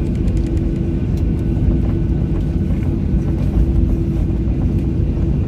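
Steady rumble inside the cabin of a Boeing 737-800, its CFM56-7B jet engines running with an even hum and no change in pitch.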